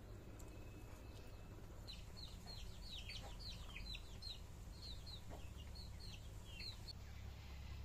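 Birds chirping in a rapid run of short, high notes that each slide downward, some twenty of them starting about two seconds in and stopping near the end, faint over a steady low rumble.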